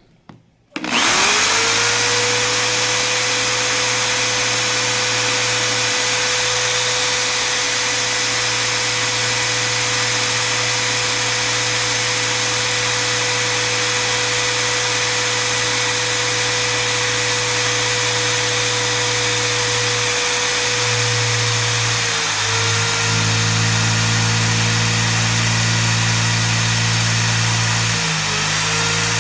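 Power drill spinning up about a second in and running steadily at a constant whine, its pitch dipping briefly twice near the end as it comes under load.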